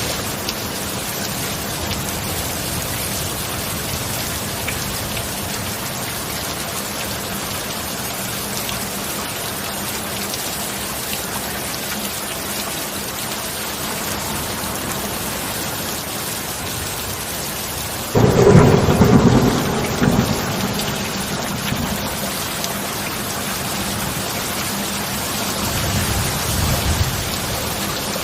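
Steady heavy rain, with a sudden loud clap of thunder about two-thirds of the way through that rumbles off over a few seconds, and a softer low rumble of thunder near the end.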